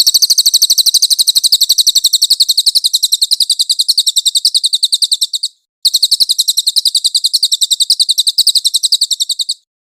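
A small songbird's high, rapid trill of about ten notes a second, in two long runs of roughly five and four seconds with a short break between, from a recorded bird-song training track (masteran).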